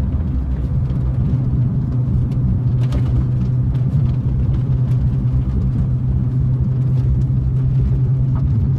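Steady low hum and rumble of a car's engine and tyres heard from inside the cabin while driving.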